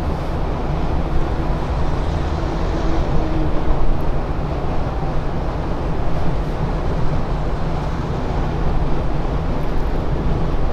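Steady road and wind noise inside the cabin of a 2021 Mercedes-Benz S580 cruising on the autobahn at around 200 km/h, with a low rumble underneath.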